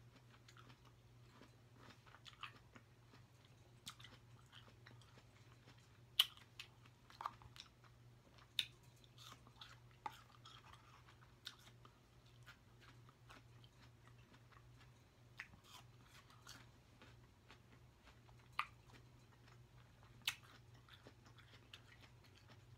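A person chewing and biting fresh fruit close to the microphone, faint, with scattered short wet clicks and smacks, the loudest few spaced seconds apart. A steady low hum lies underneath.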